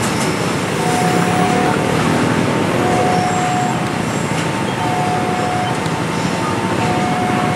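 Freight train of loaded container flatcars rolling past with a steady rumble of wheels on the rails. The level crossing's electronic warning alarm sounds over it in two alternating tones, repeating about every two seconds.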